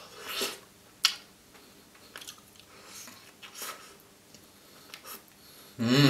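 Biting and chewing a custard-dipped, white-chocolate-coated Maxibon ice cream sandwich: scattered soft, wet chewing noises with a sharp click about a second in. Near the end comes a short, louder voiced hum.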